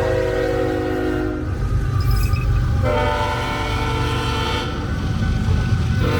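BNSF diesel freight locomotives passing, their engines rumbling steadily while the lead unit sounds its multi-note air horn in long blasts: one ending about a second and a half in, another about three seconds in, and a third starting just at the end.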